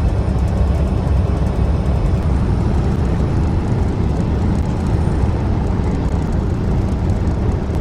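Semi-truck under way: steady engine and road noise, heaviest in the low rumble, with no breaks or changes.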